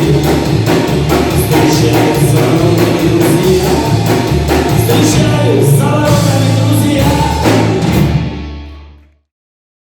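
Rock band playing live, with regular drum-kit strikes over a heavy bass line. The music fades out quickly about eight seconds in, into complete silence.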